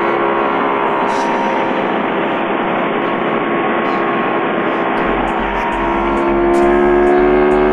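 Ducati 916's V-twin engine running on the move, its revs easing slightly and then climbing and growing louder from about five and a half seconds in.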